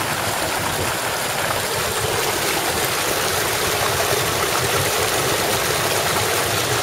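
Rainwater runoff rushing over two small waterfalls cut by erosion, a steady loud rush of water after a 3.5-inch rain.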